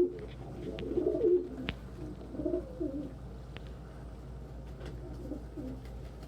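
A flock of domestic pigeons cooing, loudest in the first three seconds and softer after, with scattered light ticks among them.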